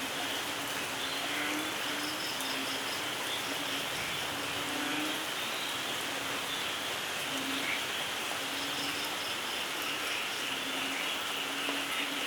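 Steady rain falling, a continuous even hiss. Over it come short low calls repeating every second or so, and twice a brief run of fast, high pulsing chirps.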